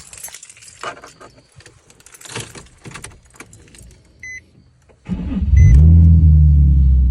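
Keys jangling and rattling, then two short electronic beeps. Just after five seconds in, the 2003 Nissan 350Z's 3.5-litre V6 cranks briefly and fires, its revs flaring up and then settling to a steady idle: the car starting now that a broken ground wire has been rewired.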